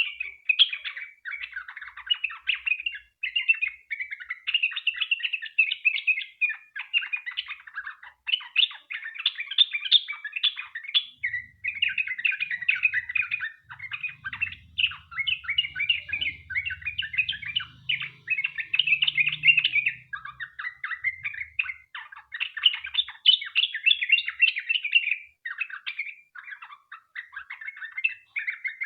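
Yellow-vented bulbul (trucukan) singing a long, unbroken run of rapid, bubbly chattering notes, the fast continuous 'ropel' song used as a lure to set other bulbuls singing.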